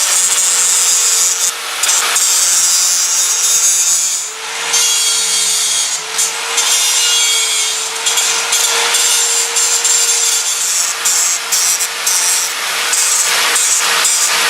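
A handheld power grinder working stainless steel: a continuous high rasping over a steady motor whine, the pitch sagging briefly about four seconds in as it bites under load.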